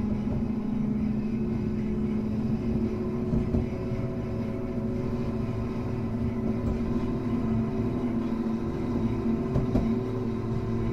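Hankai Tramway type 351 tram car running along the line: a steady rumble of wheels on rail under a hum of several motor and gear tones that shift slightly partway through.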